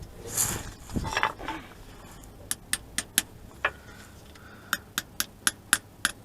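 Hand tools working at a stuck crankshaft sensor on an engine: a brief rustle and scrape of handling, then a run of sharp metallic clicks that speeds up to about four a second near the end.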